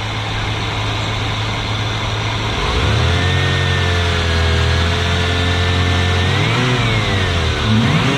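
1995 Ford Mustang GT's 5.0 L 302 V8 idling, then revved up and held at a raised speed for a few seconds. It drops back with a quick blip, and another rev begins near the end.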